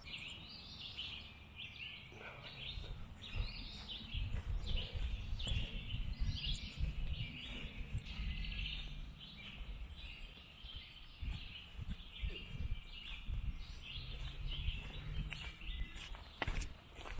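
Birds singing and chirping steadily, over a low uneven rumble and occasional clicks.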